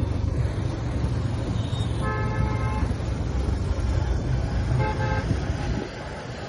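TVS Apache RTR 180 motorcycle's single-cylinder engine running under way in traffic. A vehicle horn honks twice: a longer blast about two seconds in and a short one about five seconds in. The engine sound drops near the end.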